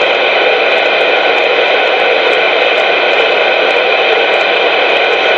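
CB radio receiver putting out loud, steady static hiss, with no voice on the channel.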